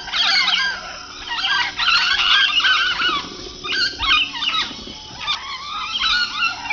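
A flock of birds calling at once: many short, overlapping squawks and honks, rising and falling in pitch.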